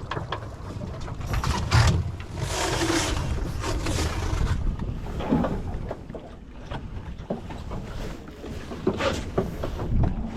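Sailing dinghy's rigging and blocks creaking and clicking as ropes work through them, with scattered knocks and wind on the microphone.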